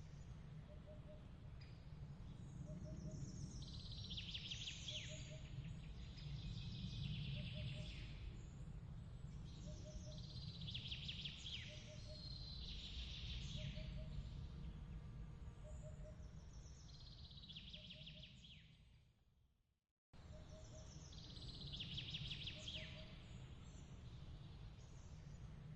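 Bird chirps in recurring bursts over a low, steady rumble of background noise, with a faint low double pip repeating about every second and a half. The whole bed fades out just before the last quarter and then starts again abruptly, as at the seam of a looped ambience track.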